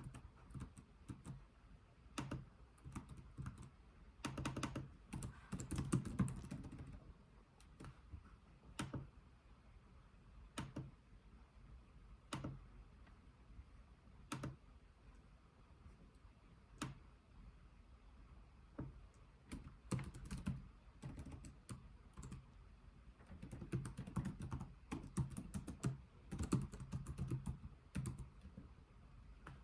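Slow typing on a computer keyboard: keys pressed in two short runs, with single clicks spaced a second or two apart in between.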